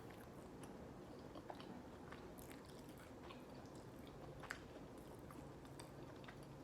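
Faint chewing of chicken McNuggets, with soft, scattered mouth clicks.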